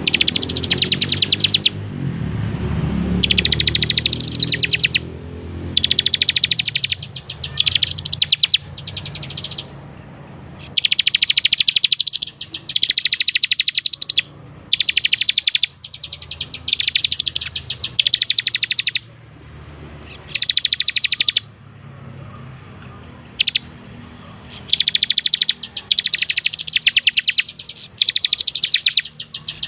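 Ciblek (a prinia) singing hard: fast, high, trilled phrases about a second long, repeated over and over with short pauses between them.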